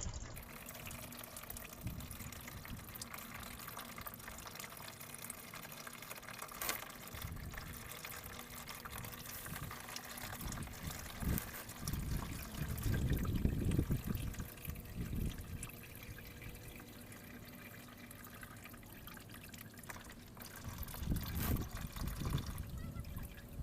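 Engine oil draining in a steady stream from the open sump drain hole of a 2018 Ford F-150 into a drain pan, with a couple of low rumbles partway through.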